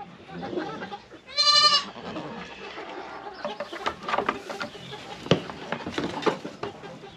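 A goat gives one loud, high bleat about a second and a half in. From about halfway on come scattered sharp clicks and knocks.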